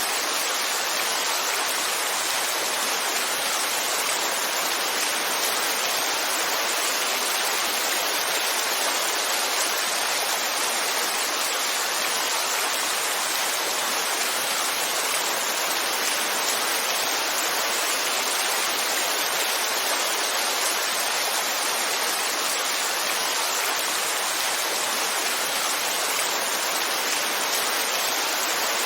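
Heavy rain falling steadily: a dense, even hiss with no single drops standing out and no change in strength.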